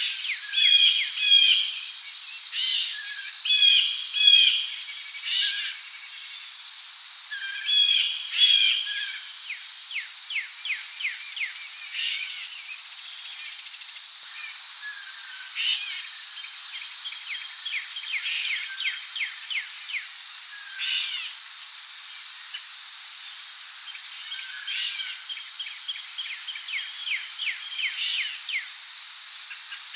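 Rainforest ambience: a steady high-pitched insect drone, with birds calling over it in short repeated chirping phrases. The calls are busiest in the first nine seconds or so, then come more sparsely.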